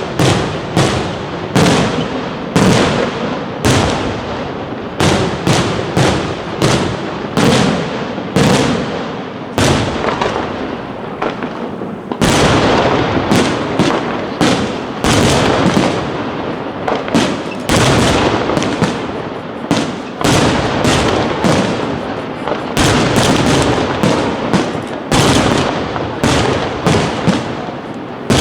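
Aerial fireworks display: a rapid, unbroken run of shell bursts, several bangs a second, each trailed by crackling and echo.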